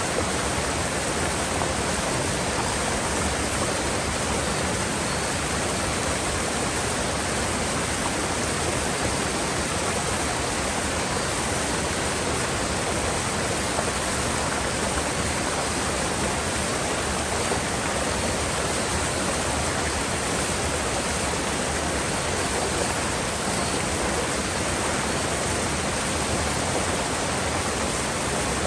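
Mountain river water rushing: a steady, unbroken roar of flowing water.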